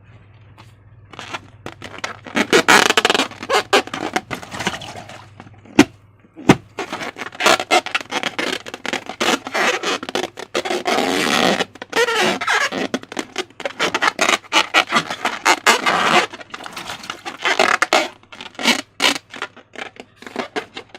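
Slime being handled and worked by hand for a balloon-slime project. Dense, irregular runs of sticky clicks and crackles start about a second in and go on in bursts, with brief pauses, until near the end.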